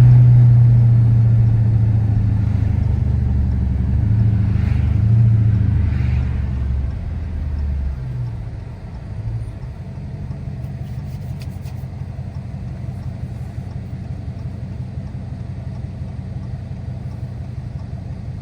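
Car engine and road noise heard inside the cabin while driving: a loud, low engine drone for the first several seconds that falls away about eight seconds in, leaving a steady, quieter rumble.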